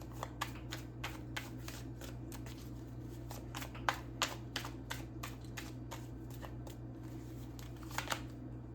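Tarot cards being shuffled and handled: a run of soft, irregular card clicks, with a few louder snaps about four seconds in and again near the end.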